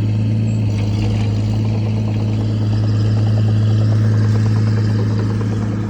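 An engine running steadily, a constant low drone that holds the same pitch throughout.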